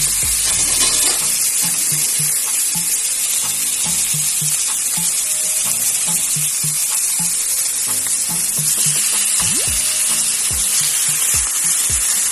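Small pieces of raw chicken sizzling steadily in hot oil in a wok with sautéed garlic and onion, an even hiss, just after the chicken went into the pan. Background music with a steady, repeating bass beat plays under it.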